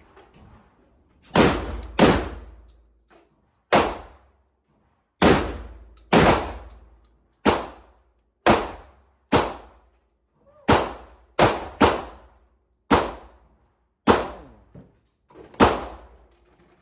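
Semi-automatic shotgun firing a string of about fourteen loud shots at irregular spacing, some in quick pairs about half a second apart, each with a short fading tail.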